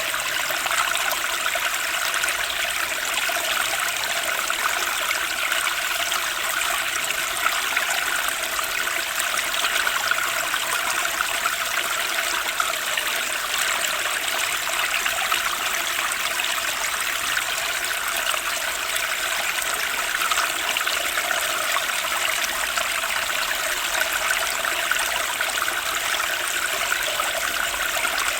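Turbulent, fast-flowing stream rushing and babbling steadily, with no let-up.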